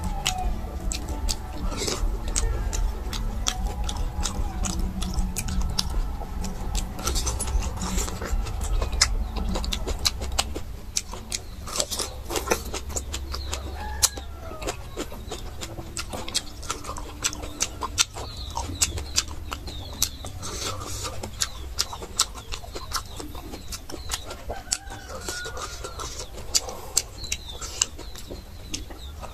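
Close-up chewing and gnawing on meat and bones: a steady run of wet mouth clicks and small crunches. Birds call in the background now and then.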